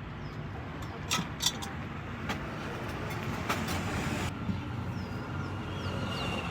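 Steady hum of street traffic, with a few sharp clicks about a second in and again around three and a half seconds in.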